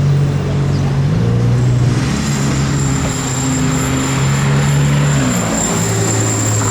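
A car engine running with a steady low note that steps down in pitch twice, about a second in and again near the end. A thin high whine joins about two seconds in.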